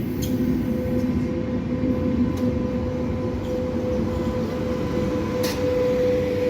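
EFE passenger train UTS610 running on the rails: a steady rumble with a steady whine, and a few sharp clicks spaced a couple of seconds apart.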